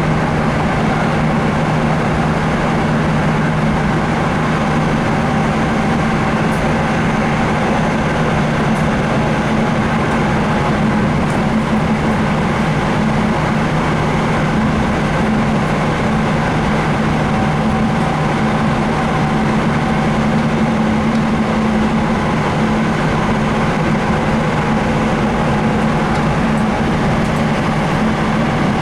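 Sound Transit Link light rail car running at speed between stations, heard from inside the car: a steady rumble of wheels on rail with a constant low motor hum.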